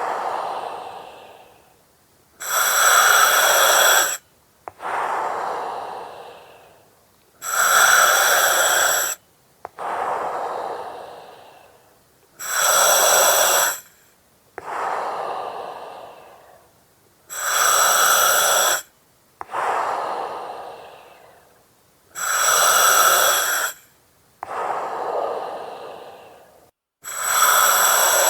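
Slow, regular breathing through an oxygen mask with its valve or regulator, about one breath every five seconds. Each cycle is a loud, even hiss with whistly high tones lasting a second and a half, followed by a softer breath that fades out.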